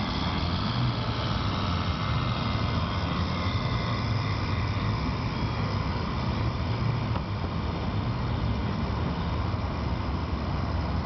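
A radio-controlled scale model boat running with its motor on, giving a steady low hum with a faint high tone over an even rushing noise.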